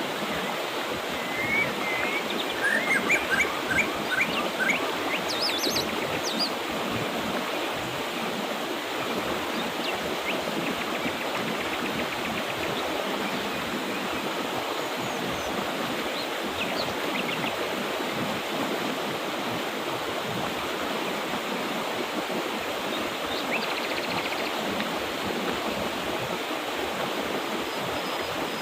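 Mountain river water running steadily. Birds chirp in short bursts of quick high notes during the first few seconds, and once more near the end.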